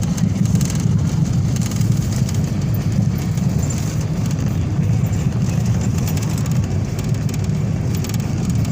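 Steady low rumble of a car driving along a highway, road and engine noise with no change in pace.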